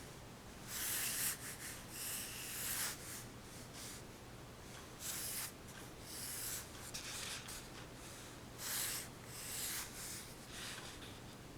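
Pencil graphite scratching across drawing paper in short sketching strokes, a dozen or so scratchy bursts with brief pauses between them.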